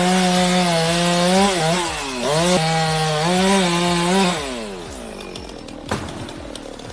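Chainsaw running at high revs through a cut, its pitch dipping and recovering a few times under load. The throttle is let off about four seconds in and the engine winds down, with a sharp knock near the end.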